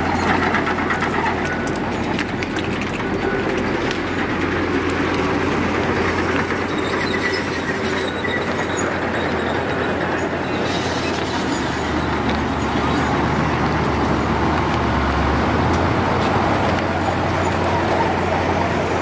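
Heavy diesel construction machinery working: a steady, loud engine rumble with scattered light clatter, unbroken throughout.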